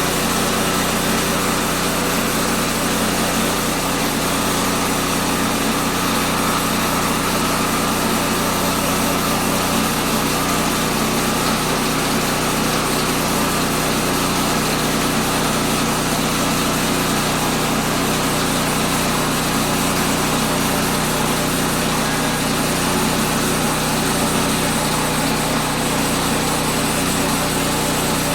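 Small gasoline engine of a Woodland Mills portable bandsaw mill running steadily at an even speed.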